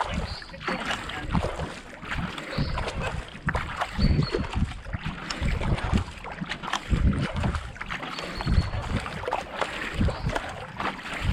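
Kayak paddle strokes in a steady rhythm: the blades splash in and pull through the water, with water rushing along the hull and wind buffeting the microphone.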